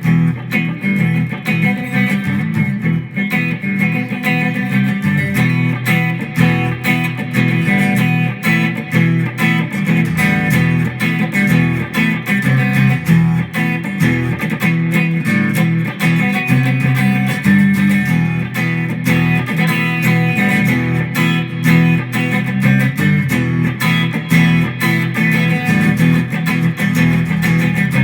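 Ibanez electric guitar being played without a break, a continuous stream of changing notes.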